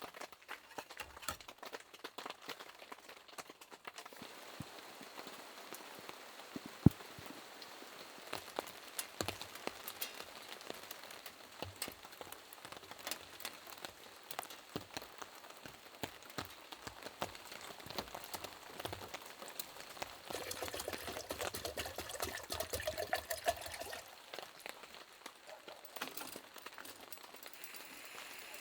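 Rain falling, with many separate drops ticking on a surface and one sharper knock about seven seconds in. The sound thickens for a few seconds past the middle.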